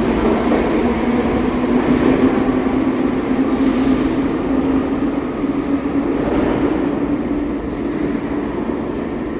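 New York City subway train running on the track: a steady rumble of wheels and running gear with a steady hum over it. The hum fades and the sound eases off slightly near the end.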